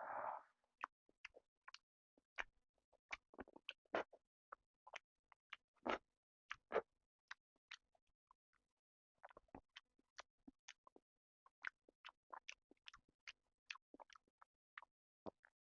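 A person chewing food close to the microphone: short, irregular mouth clicks, a few a second, with a couple of louder ones about six seconds in.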